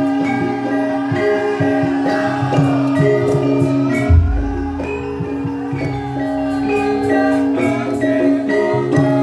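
Javanese gamelan music for a lengger dance: ringing metal-keyed notes over a steady held tone, with a deep drum stroke about four seconds in.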